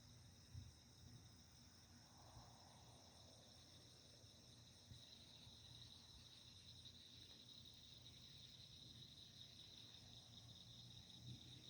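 Faint, steady chorus of night insects: a high-pitched trill that grows a little louder about five seconds in.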